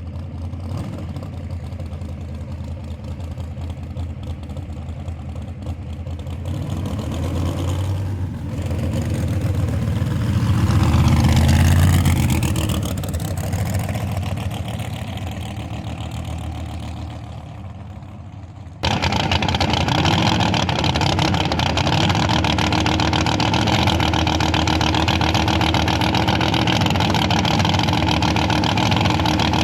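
Small-block V8 street car engine running, revving up and easing back down around the middle. About two-thirds of the way through, the sound jumps suddenly louder and stays at a steady, heavier running note.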